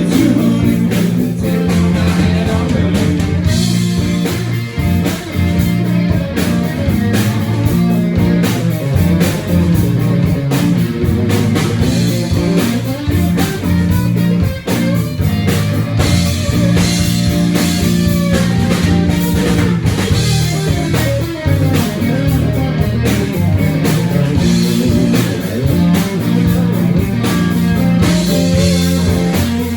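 Live blues-rock band playing, with guitar to the fore over a steady bass and beat.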